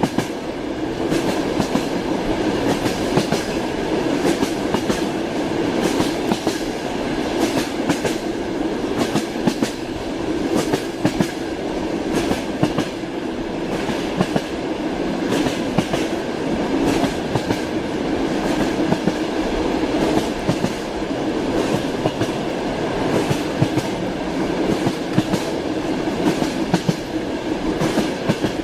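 A train running along the track, its wheels clacking over the rail joints: a steady rumble with frequent, uneven clicks throughout.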